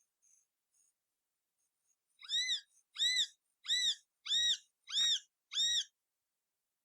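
Pet parrot calling six times in a row, each call a short note that rises and then falls in pitch, starting about two seconds in.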